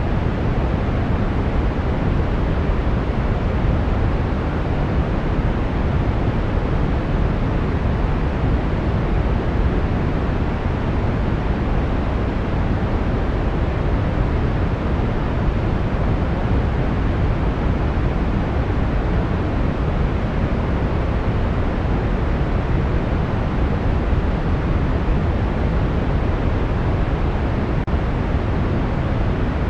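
Brown noise: a steady, deep rushing hiss, strongest in the low end and fading toward the top, with no changes.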